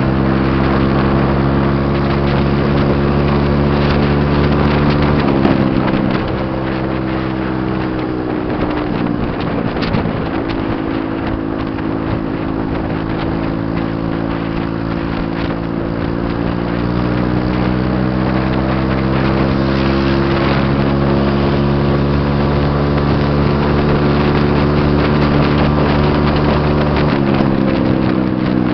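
Engine and loud exhaust of a 125 cc Vmoto bike under way, holding a steady note that drops off about five seconds in, climbs slowly through the middle and falls again near the end, with wind rushing over the microphone.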